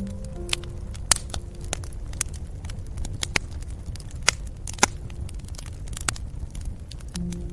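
Wood fire crackling: scattered sharp pops and snaps over a low, steady rumble of burning. Soft held music notes fade out about a second and a half in and return near the end.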